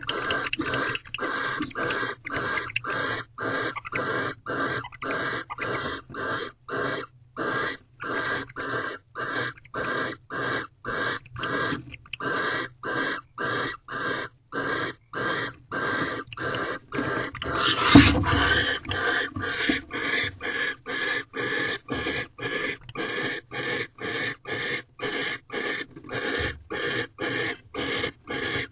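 Barn owl giving rhythmic hissing, snoring begging calls, about two harsh breathy hisses a second, with one louder burst about eighteen seconds in. These are food-begging calls, given while the mate brings prey.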